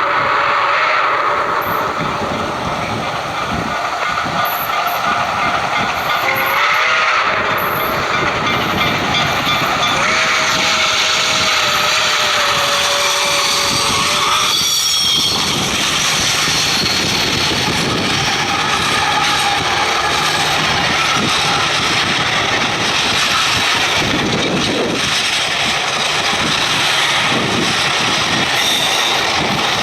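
Railroad train passing at speed, a steady rumble and rattle of wheels on rail. A steady tone is held for about the first half and stops about halfway through.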